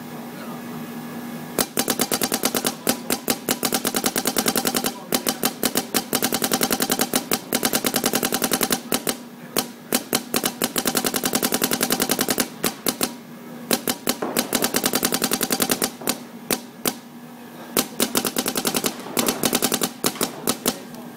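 Planet Eclipse Geo 2.1 spool-valve paintball marker firing in rapid strings of shots, starting about a second and a half in, broken by short pauses and with scattered single shots near the end. The dwell is set high, which the uploader says gives the shots their odd sound.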